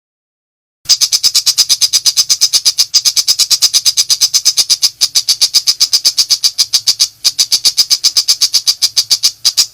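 Long-tailed shrike (pentet macan) calling in full 'nembak' style: a loud, rapid-fire chatter of sharp, harsh notes, about eight a second, starting about a second in and running in a long burst broken only by a few brief catches.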